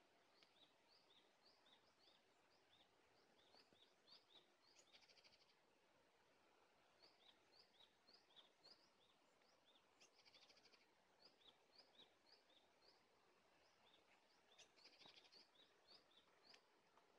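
Faint small-bird calls: a steady run of short, high chirps, two to three a second, broken three times by a brief buzzy rattle, over a faint outdoor hiss.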